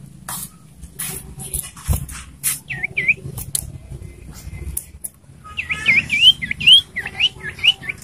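Caged common iora calling: two short chirps about three seconds in, then a quick run of sharp, rising-and-falling notes from about halfway through. Scattered clicks and taps come in between.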